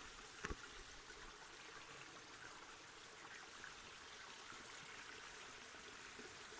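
Small river stream running steadily, faint. A brief knock about half a second in.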